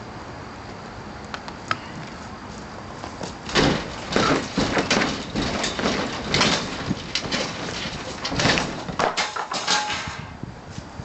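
A porch roof's wood framing being knocked down: a few faint clicks, then from about three and a half seconds in a run of loud cracks, bangs and crashing debris lasting about six seconds.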